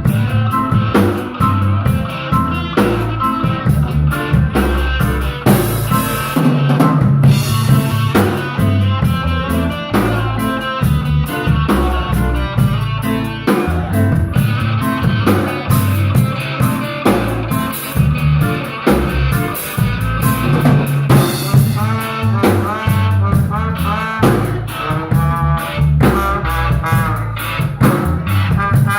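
Live band playing an instrumental tune with no vocals: drum kit with rimshots and a steady beat, bass and guitar.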